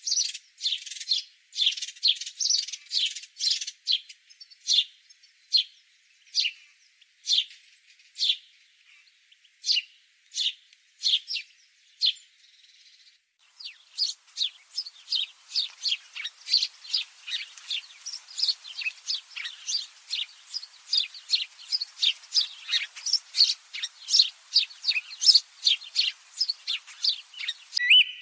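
Songbirds chirping: short, sharp, high chirps repeated every second or so. About halfway through, the chirps come faster, about two a second, over a faint background hiss.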